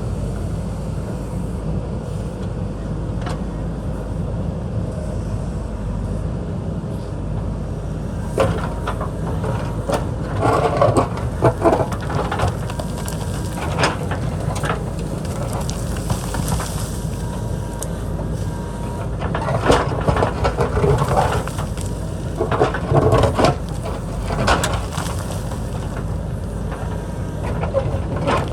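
JCB backhoe loader's diesel engine running steadily, with bursts of clanking and scraping from the bucket working rock and dirt, heaviest through the middle.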